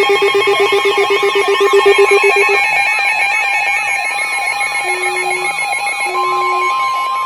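Several electronic emergency alert tones sounding together: a pulsing buzz that stops about two and a half seconds in, a siren-like tone warbling up and down about twice a second, three short low beeps in the second half, and a steady high alert tone starting about six seconds in, the kind that leads into a weather radio warning.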